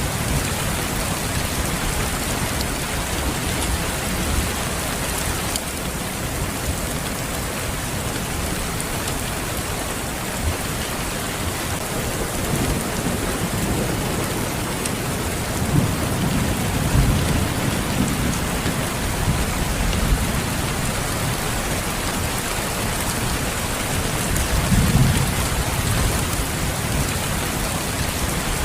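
Steady heavy rain with low rumbles of thunder, swelling in the middle and again near the end.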